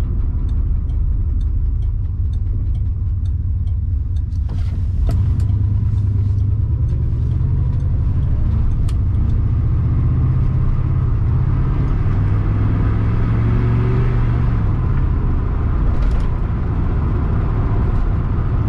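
The 1980 Pontiac Trans Am Turbo's 4.9 turbo V8 heard from inside the cabin while driving. It is quieter at first, then grows louder about five seconds in as the car pulls away. The engine note climbs slowly for several seconds and drops at about fifteen seconds as the automatic transmission shifts up. A faint regular ticking is heard in the first few seconds.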